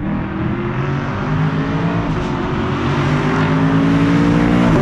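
Sixth-generation Camaro SS 6.2-litre naturally aspirated V8 accelerating through its exhaust, the engine note climbing and growing louder, then dropping in pitch at a gear change near the end.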